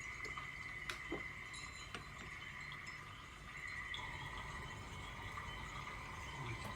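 Faint, steady chime tones ringing, with a few light clicks about a second and two seconds in.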